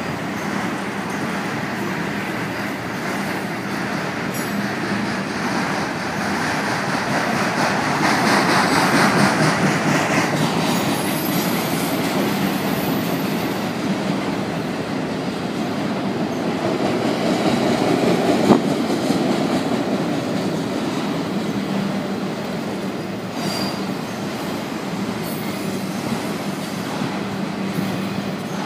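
Freight train of multilevel autorack cars rolling past close by: steady rumble and clatter of steel wheels on the rails. It swells twice, around a third of the way in and again just past the middle, with one sharp knock at the second swell.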